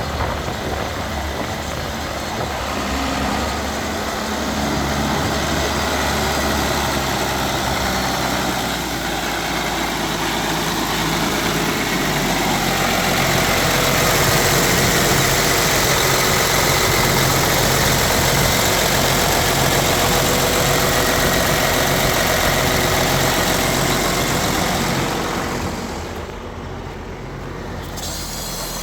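John Deere 4450's six-cylinder diesel engine running steadily, its speed raised about halfway through and held, then dropping back toward idle near the end.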